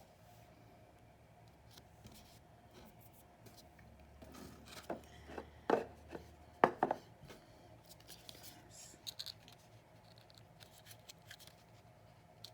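A new oracle card deck and its cardboard box being handled: soft rubbing and scraping with a few sharp clicks near the middle as the tightly packed cards are worked out of the box.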